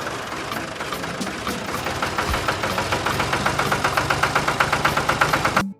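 An engine running with a fast, even knocking beat, cutting off suddenly near the end.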